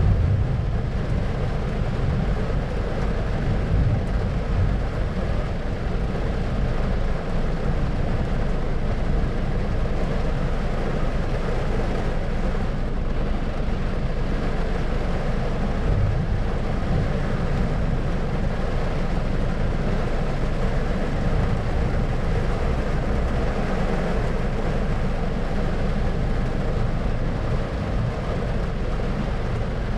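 Thunderstorm white-noise ambience: a steady low rumble with a fainter hiss above it, even throughout, with no distinct thunderclap.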